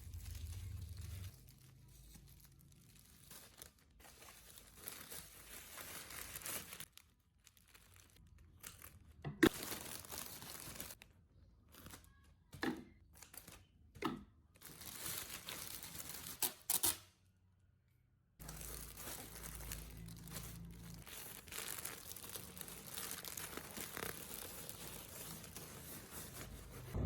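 Packaging being handled at close range: tearing and crinkling in a series of short stretches that start and stop abruptly, with a few sharp clicks and a brief silent gap a little past the middle.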